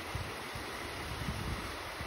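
Steady rain falling, an even hiss, with a few low rumbles of wind on the microphone.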